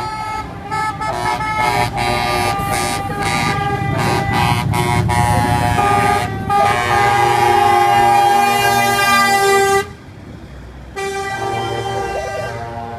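Lorries in a passing convoy sounding their horns: a run of short blasts, then a long steady blast that cuts off suddenly about ten seconds in, and another blast near the end, over the rumble of truck engines.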